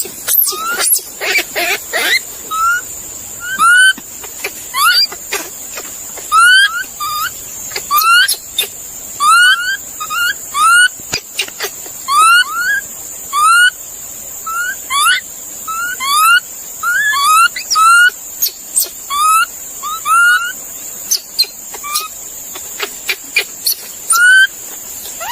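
An animal making short, rising whistled chirps over and over, about one or two a second and often in pairs.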